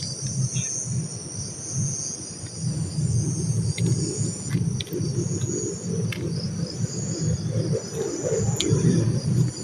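Crickets and other night insects chirring steadily in a high band, over an uneven low rumble.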